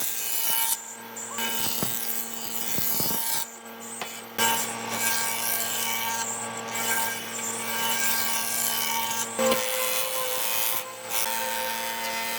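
A power tool running at a steady, constant pitch as it works into wood, with short breaks about three and a half seconds in and again near the end.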